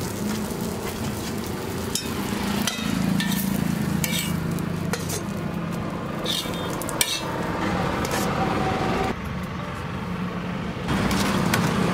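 Food frying and sizzling on a hot griddle, with a scatter of short sharp clicks and clinks from metal utensils.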